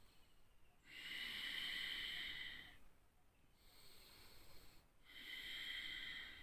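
A person taking slow, deep breaths in and out after a round of Kapalbhati breathing, three airy breaths of a second or two each, the first and last the loudest.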